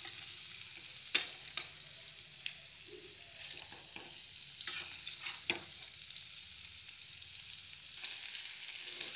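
Potato cubes sizzling in hot mustard oil in a wok as they are stirred, the steel spatula scraping and knocking against the pan a few times.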